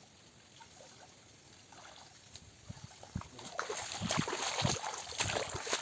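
Muddy water sloshing and splashing with irregular knocks, faint at first and growing louder over the last three seconds.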